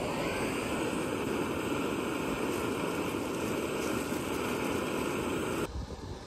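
Steady rushing noise that cuts off suddenly near the end, leaving low gusts of wind buffeting the microphone.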